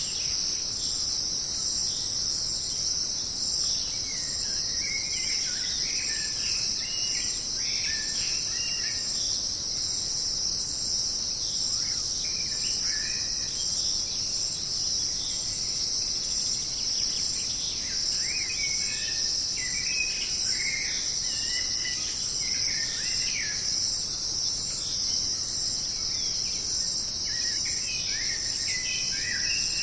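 Jungle ambience: a steady, high-pitched chorus of insects with scattered short bird chirps and calls over it.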